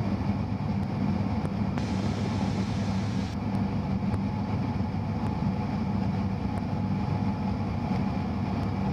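Cessna 172's piston engine and propeller droning steadily, heard inside the cabin in flight.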